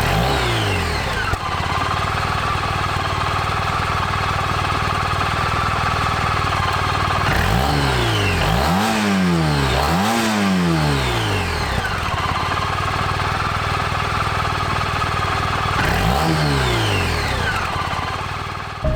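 Suzuki Burgman 650 scooter's parallel-twin engine running. The revs fall at first and then hold steady. They rise and fall twice in quick succession about halfway through, and once more near the end.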